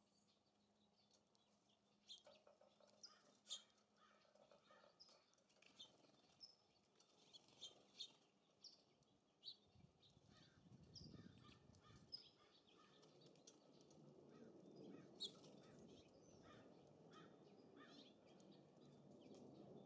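Faint scattered chirps and short call notes of small songbirds. A low rush of gusting wind builds from about halfway through.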